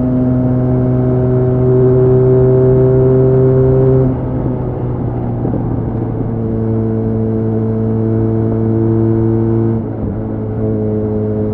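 Benelli Leoncino 500's parallel-twin engine running at steady high revs under speed, then easing off about four seconds in and settling at a lower, steady pitch, with a brief dip near the end.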